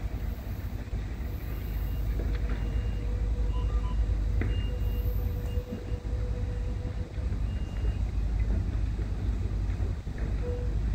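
Amtrak California passenger train drawing slowly into a station, cab car leading: a steady low rumble, with a faint thin whine held for several seconds in the middle.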